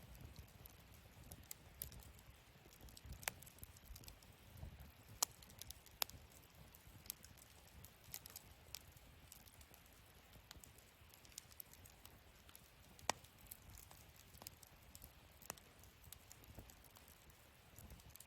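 Wood fire burning in a fire-pit stand, crackling faintly with irregular sharp pops, a few of them louder, over a low rumble.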